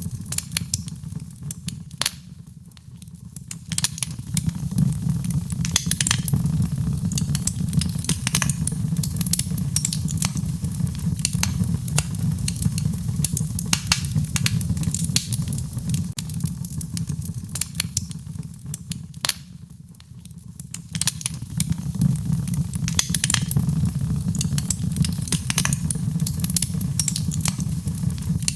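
Wood fire crackling in a fireplace: a steady low rumble of flames under frequent sharp pops and snaps, dipping briefly in loudness twice.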